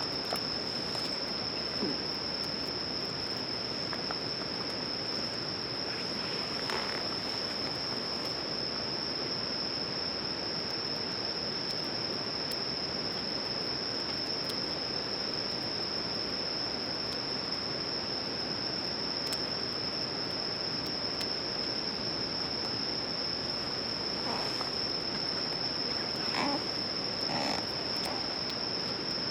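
Insects, likely crickets, singing a continuous high-pitched trill that holds one steady pitch throughout, over a steady hiss, with a few faint clicks.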